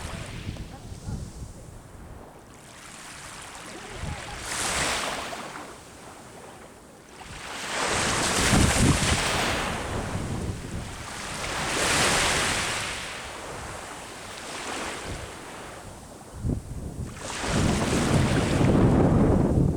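Ocean waves breaking and washing up the shore, four or five swells of surf rising and falling, with wind buffeting the microphone in short low thumps.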